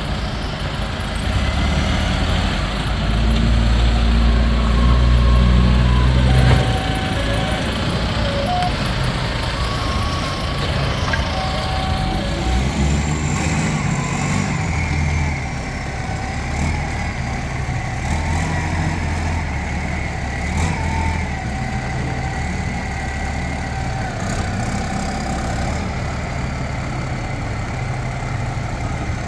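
Diesel engine of a Nippon Sharyo DH408-95M crawler pile driver running, swelling louder and deeper for a few seconds near the start, then settling back to a steady run.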